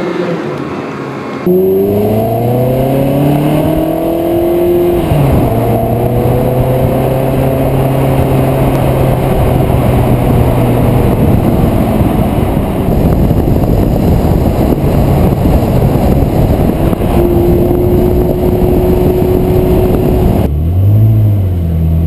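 Ferrari 360 Modena's V8 through an aftermarket Tubi exhaust, accelerating hard: the engine note rises, drops at an upshift about five seconds in, then runs on at a steadier speed with heavy road and wind noise.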